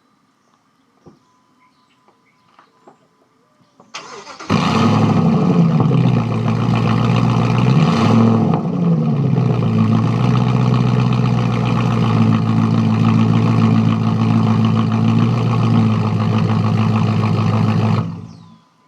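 2004 Jeep Grand Cherokee's straight-piped 4.7-litre V8 cranking and starting about four seconds in, then running loud with a brief rev a few seconds later and settling to a steady idle before it is shut off near the end.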